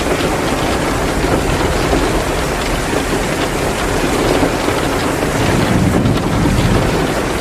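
Heavy rain pouring down steadily, a dense even hiss with fine patter.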